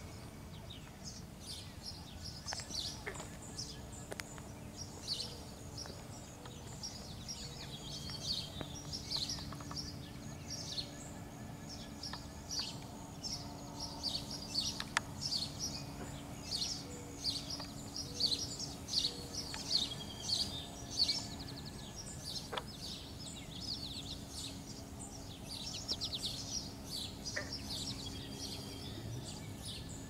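Small birds chirping busily, many short high chirps that grow thickest about halfway through, over a faint steady low hum.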